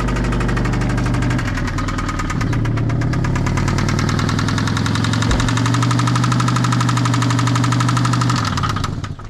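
Scion FR-S's Subaru flat-four boxer engine running at idle with a rapid, even knocking, the sign of a rod knock. It shuts off near the end.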